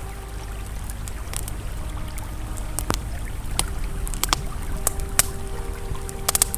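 Campfire crackling, with irregular sharp pops and a quick cluster of them near the end, over the steady rush of a flowing river.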